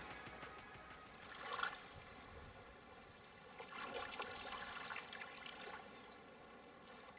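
Faint trickling and splashing of water around a canoe, swelling briefly about a second and a half in and again around four seconds.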